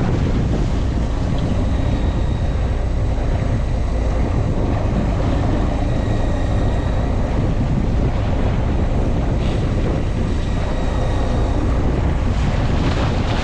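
Fishing boat's engine running steadily, a constant low rumble with wind buffeting the microphone.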